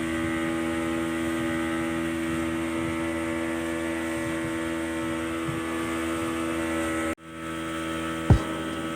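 Speedboat engine running at a steady, unchanging drone. About seven seconds in the sound cuts off abruptly, and a steady hum with a single sharp knock follows near the end.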